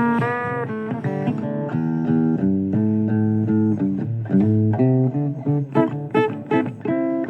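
Instrumental blues music: an electric or acoustic guitar playing a run of single plucked notes, some of them bent, over a bass line.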